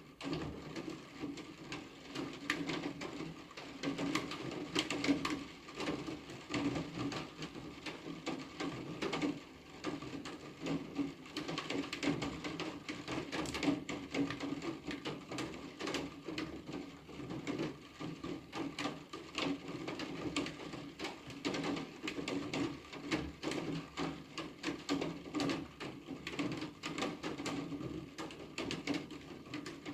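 Steady rain, with a dense stream of irregular ticks from drops hitting a hard surface.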